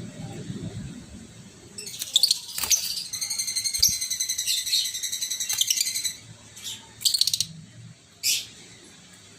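Lovebirds chattering: starting about two seconds in, a rapid run of high, shrill chirps for some four seconds, followed by a few short separate calls.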